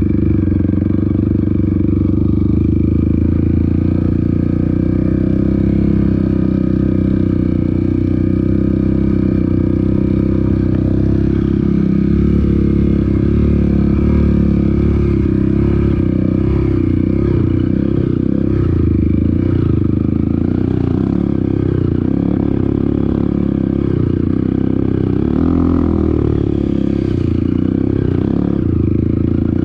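Off-road motorcycle engine running under way on a trail ride. The revs hold fairly steady at first, then rise and fall repeatedly through the second half as the throttle is worked.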